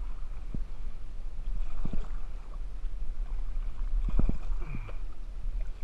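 Kayak being paddled, with a few short knocks and a steady low rumble on the microphone.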